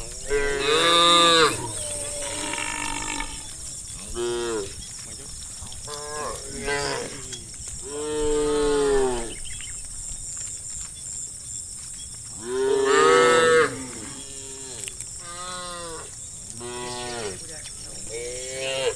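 A herd of cattle mooing, many calls following and overlapping one another. The loudest calls come about a second in, around eight seconds in and around thirteen seconds in.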